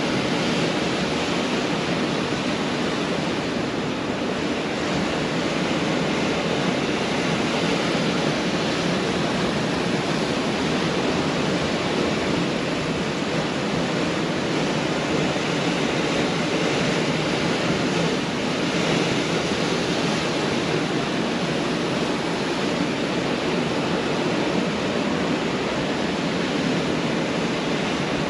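Pacific Ocean surf: a steady wash of breaking waves, with no distinct single wave crashes standing out.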